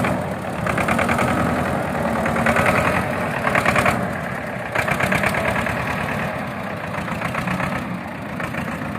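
Tractor diesel engine running after being push-started, with a fast, even knock. It swells louder over the first few seconds, then settles and eases off.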